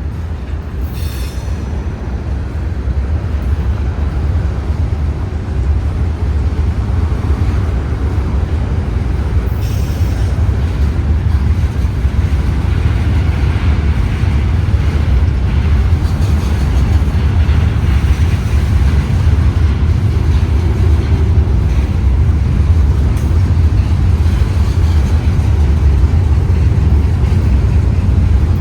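Freight train rolling by with a heavy, steady low rumble that grows gradually louder.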